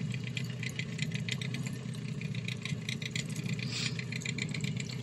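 Small dinghy outboard motor idling steadily, with a fast light rattle over its low hum.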